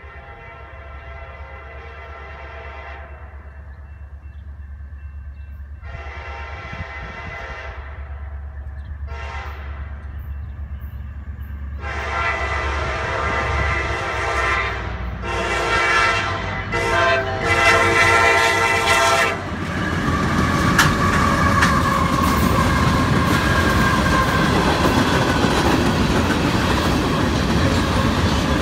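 A CSX freight locomotive's multi-chime air horn sounds several blasts as the train nears a grade crossing, getting louder, with a close run of blasts in the middle. Under it the diesel rumble grows. From about two-thirds of the way in, the train passes close by, the covered hopper cars' wheels clattering over the rails.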